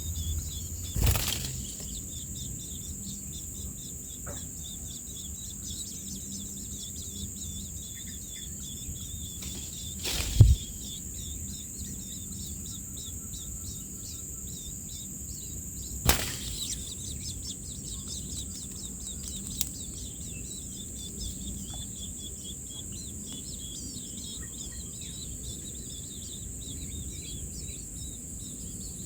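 Steady insect chorus, a high continuous drone with fast chirping under it. Three brief sudden flutter-like sounds break in, about a second in, about ten seconds in and about sixteen seconds in; the middle one is the loudest and carries a low thump.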